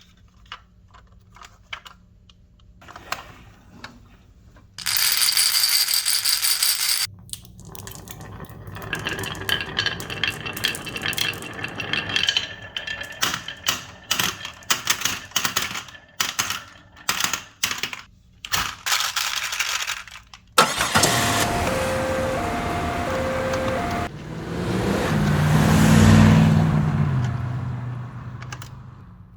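Marbles rolling and clacking through a HABA toy marble run, with many quick clicks and rattles as they drop and collide. Later comes an alternating two-note beeping, then a sound that swells up and fades away near the end.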